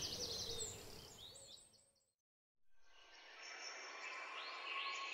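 Small birds chirping and singing over a faint outdoor hiss, fading out to silence about a second and a half in, then faintly coming back with a few more calls near the end.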